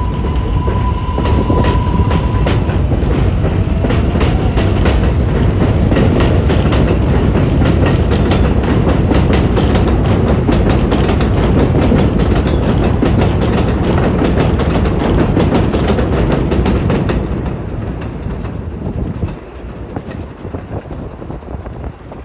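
R188 subway train of the 7 line passing close by, with a loud rumble and a rapid clickety-clack of wheels over rail joints. After about 17 seconds it fades away quickly.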